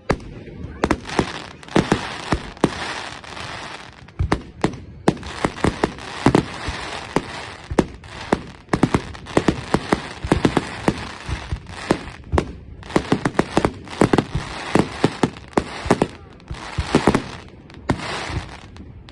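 Fireworks going off in a rapid, irregular barrage of sharp bangs and crackles, with a few brief lulls.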